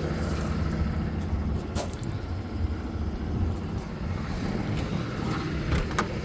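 Truck engine idling steadily with a low, even rumble, left running to warm up. A few faint clicks sound over it, one about two seconds in and another near the end.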